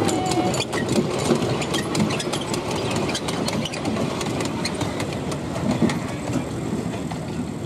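Miniature-railway train rolling past, its wheels clicking over the rail joints, over a steady engine running.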